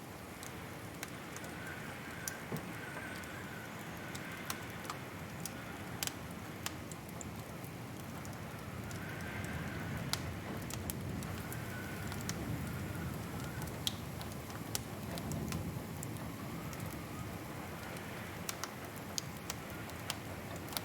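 Wood fire crackling in a fireplace: sharp, irregular pops and snaps over a steady hiss and low rumble, with a faint wavering whistle that comes and goes.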